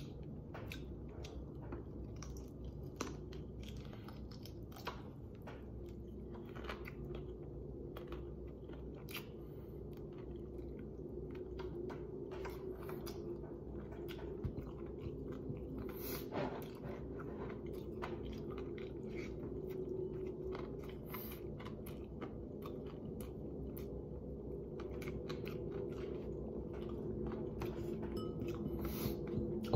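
A person chewing and crunching fried chicken up close, with irregular small clicks and smacks as fingers tear at the meat, over a steady low hum.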